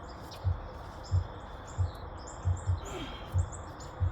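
Birds chirping with short, repeated high notes, over a series of low dull thumps about two-thirds of a second apart.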